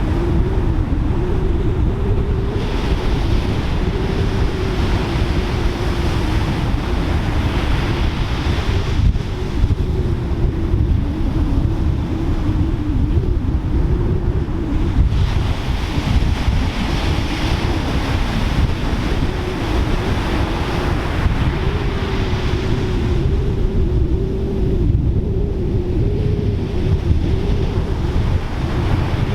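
Ocean surf breaking and washing, with heavy wind rumble on the microphone and a wavering low hum underneath. The hiss of the wash swells up twice.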